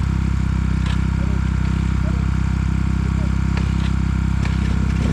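Trail motorcycle engine idling steadily, with a few light clicks over it.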